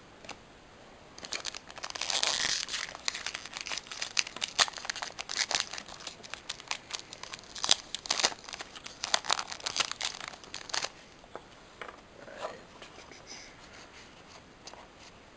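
A foil Pokémon booster pack wrapper is torn open and crinkled, with the cards inside crackling and clicking as they are handled. The crackling is busiest in the first two-thirds, then eases to quieter handling near the end.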